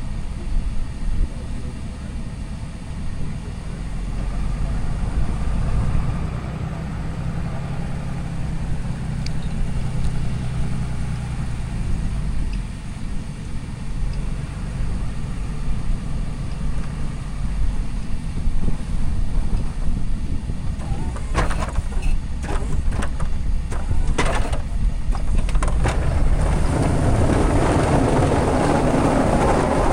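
Diesel pickup truck running with a steady low rumble. A run of sharp knocks comes about three-quarters of the way through, then a louder rushing noise builds near the end.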